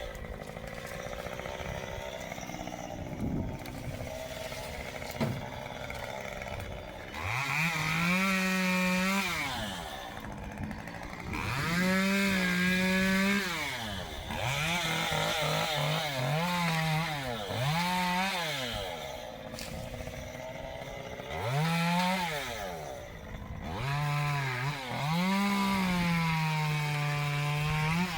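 Chainsaw engine revving up to full throttle and dropping back to idle several times, with a long full-throttle run near the end.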